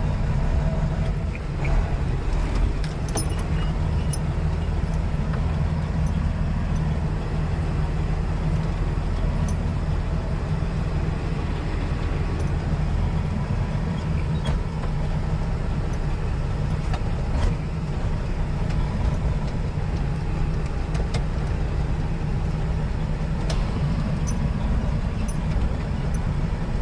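Semi truck's diesel engine running steadily, with a few faint light clicks and rattles now and then.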